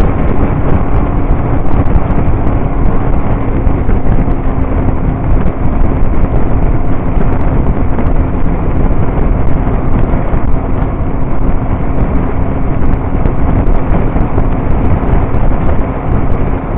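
Motorcycle running at a steady cruising speed, one even engine tone under heavy wind rush on the microphone.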